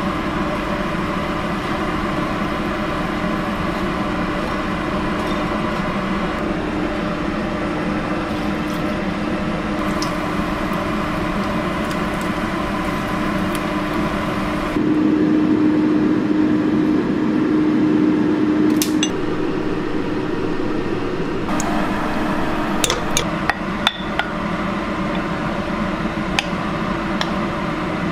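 Hot oil sizzling in a wok as food fries, over a steady low hum. A wooden spatula knocks and scrapes against the pan a few times.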